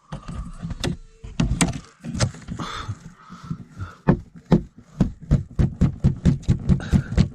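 Footsteps crunching through fresh, deep snow, settling into a steady walk of about two steps a second from about four seconds in, after a few scattered knocks and rustles.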